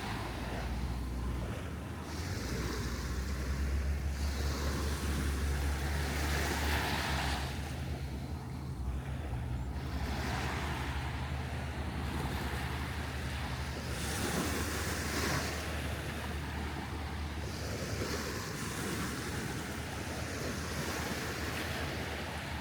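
Surf washing onto the beach in repeated swells every few seconds, with wind buffeting the microphone. A steady low hum runs under it and fades out about two-thirds of the way through.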